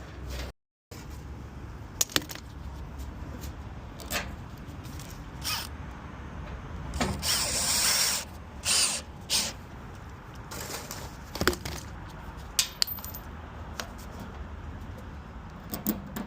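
Tool work on an HVAC unit's metal cabinet: scattered clicks and knocks of tools and parts, with about a second of power tool running about seven seconds in.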